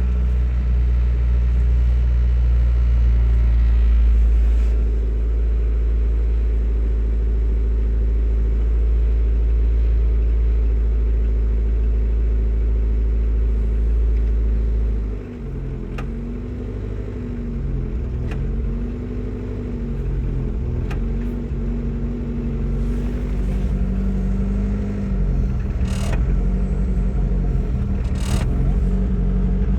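Suzuki Samurai's four-cylinder engine idling after a cold start in deep frost: a steady, even idle that about halfway through suddenly drops to a lower, uneven idle wavering up and down in pitch. A few sharp clicks and two short hissy noises come near the end.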